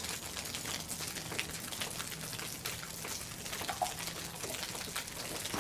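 Faint, steady crackling and sizzling over a campfire, with scattered small pops.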